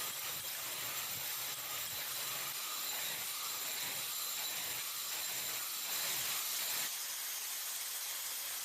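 A steady, even hiss with faint, thin high-pitched whine tones running through it, with no strikes or rhythm.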